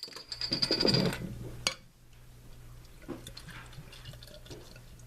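Beer being poured into a glass, a loud splashing pour lasting a little under two seconds. It ends with a sharp tap, followed by faint small sounds.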